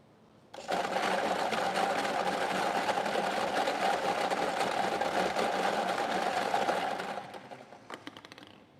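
A prize-draw machine running through a number draw after its button is pressed: a fast, steady mechanical whirr-rattle for about six seconds that slows into separate clicks and stops near the end, settling on the drawn digit.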